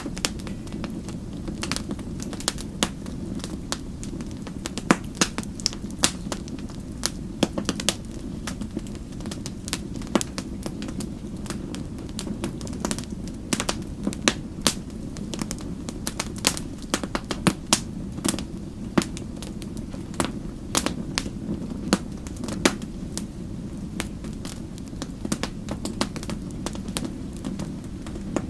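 Wood fire crackling: many sharp, irregular pops and snaps over a steady low rumble of the flames.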